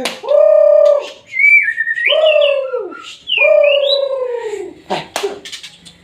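Bird calls: three long, low cooing notes, each about a second and dropping in pitch at the end, with higher whistled glides in between and over them.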